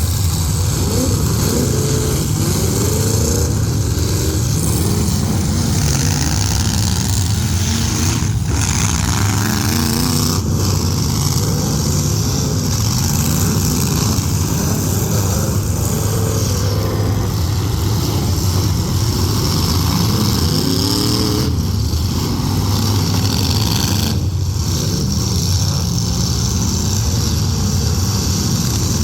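Several full-size demolition derby cars' engines running and revving together, with pitch rising and falling as the drivers rev.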